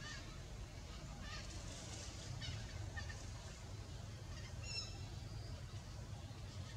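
Faint, high bird chirps scattered through, with one clearer short call about five seconds in, over a steady low rumble.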